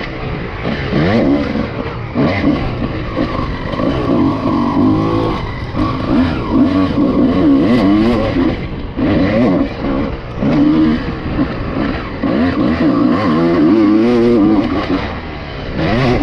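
Honda CR250's 250cc two-stroke single-cylinder engine being ridden hard, its pitch rising and falling over and over as the throttle is opened and closed and gears change.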